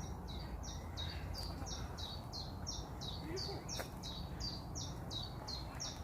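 A small songbird singing a long run of short, clear whistled notes, about three a second, alternating higher and lower in a repeated two-note phrase, over a steady low background rumble.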